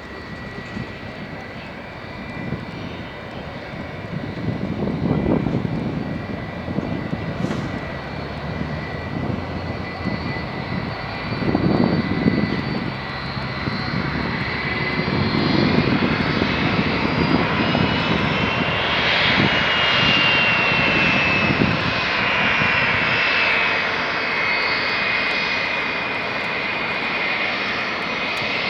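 Jet airliner's engines with a high whine, the noise swelling as the aircraft passes and the whine gliding in pitch partway through.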